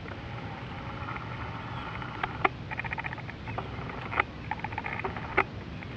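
Small animal's chirping trills, short pulses repeated in groups, with a few sharp clicks, the loudest about two and a half seconds in and near the end.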